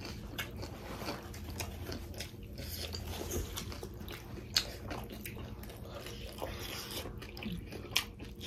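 Close-miked chewing and biting into pork momo dumplings, with many short, scattered wet mouth clicks and smacks.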